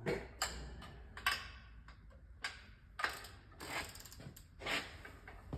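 Irregular sharp metallic clicks and knocks of hand tools and parts being handled during work on a gearbox, about eight in all, unevenly spaced, over a low steady hum.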